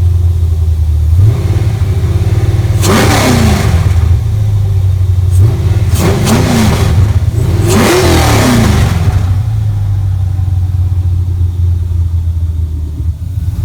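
Engine idling steadily and revved three times, the pitch climbing and falling back to idle each time.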